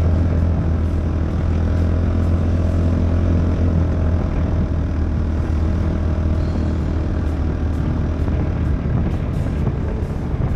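Polaris Ranger 570 SP's single-cylinder four-stroke engine running at a steady speed while the side-by-side drives along, a low, even drone.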